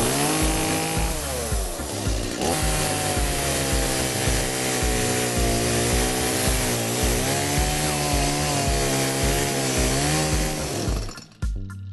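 Chainsaw running and cutting through a log, its engine note sagging and picking up again under the load, then cutting off near the end. A background music beat runs underneath.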